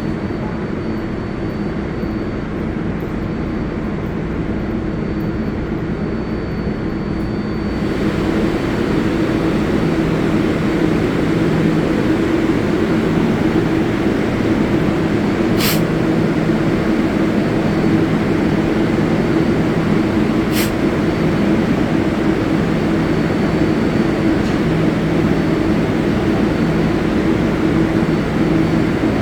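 Subway train at a station platform: a steady low hum with a layer of noise, stepping up in level about eight seconds in, with two short high ticks later on.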